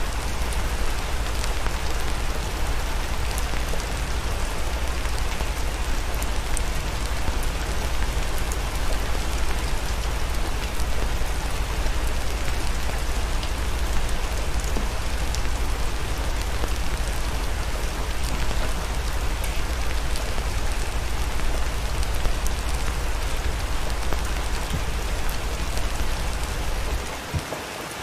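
Steady rain with fine pattering drops over a low rumble. The rumble drops out and the level dips for about a second near the end.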